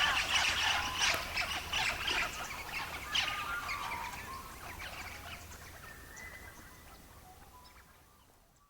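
Birds chirping over quick crackling, the whole mix fading out steadily to near silence near the end.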